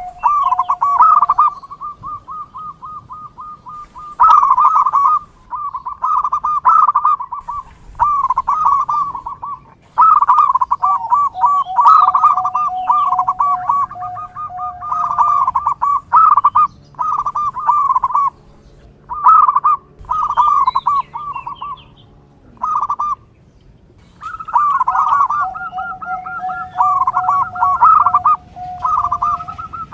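Zebra doves (perkutut) calling: phrase after phrase of quick, rolling coos, repeated with short gaps. A steady lower tone is held under the coos at times.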